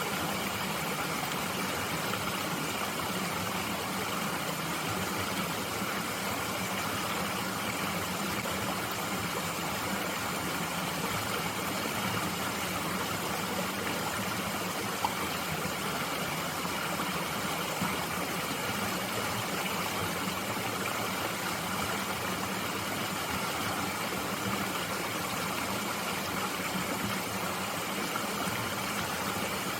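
Mountain stream running steadily, an even rush of flowing water, with one faint tick about halfway through.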